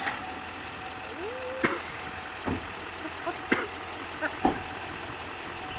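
Truck engine idling steadily, with four sharp clicks or knocks about a second apart.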